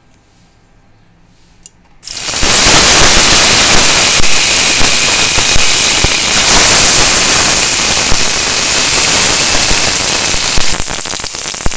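Cubed brinjal (eggplant) hitting hot oil in a kadai and sizzling loudly with a dense crackle as it starts to fry. The sizzle starts suddenly about two seconds in and eases a little near the end.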